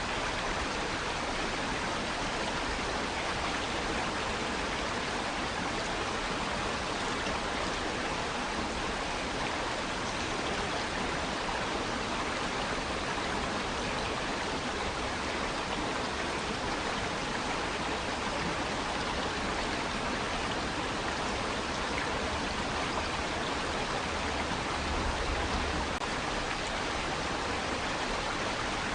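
Water rushing and splashing against rocks, a steady even wash of sound with no breaks.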